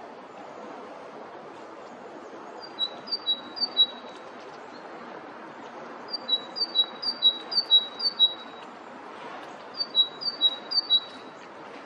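A small songbird singing a repeated two-note phrase, high then lower, in three runs of several phrases each, over steady background noise.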